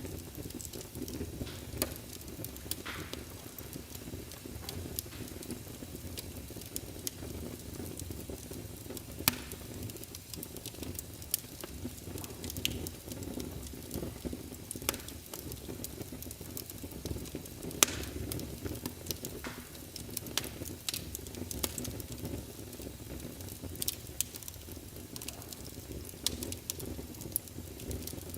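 Fireplace crackling: a steady low rumble of burning wood with frequent sharp, irregular pops and snaps.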